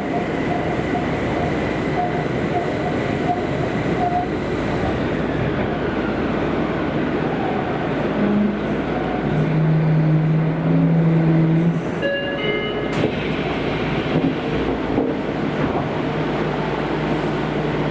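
Kobe City Subway 5000-series linear-motor train running through the tunnel: a steady rumble of running noise with motor-drive tones, and a low hum that comes and goes in the second half as it nears the next station. About twelve seconds in there is a brief cluster of higher tones.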